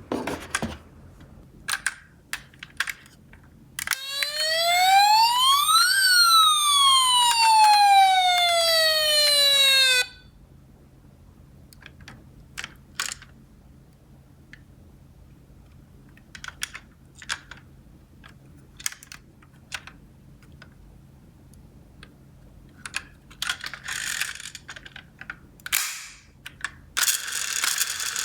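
Electronic toy siren from an emergency-vehicle minicar: one wail that rises and then falls over about six seconds and cuts off suddenly. Around it, scattered clicks and clatters of small plastic toy cars, with a couple of longer scraping rattles near the end.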